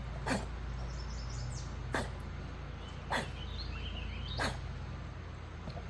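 A dog breathing hard in short, sharp huffs, about one every second and a half. Faint bird chirps are heard twice.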